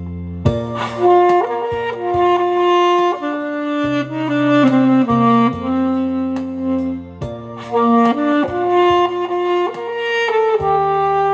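Alto saxophone playing a slow, sustained melody over an accompaniment of keyboard and bass. The saxophone comes in about half a second in, after a held keyboard chord.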